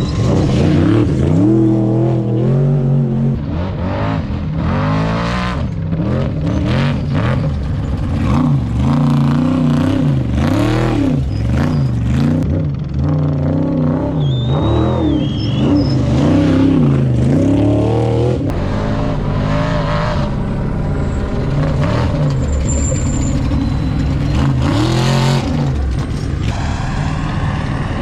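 Trophy truck race engines revving hard and easing off again and again, the pitch rising and falling with the throttle as the trucks pass.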